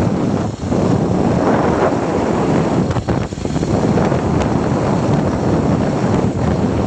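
Heavy wind buffeting the microphone of a rider on a moving motorbike, with road noise beneath. It dips briefly about half a second in and again about three seconds in.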